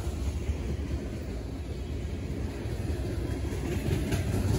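A CSX train rolling past, a steady low rumble of wheels on the rails that grows a little louder near the end.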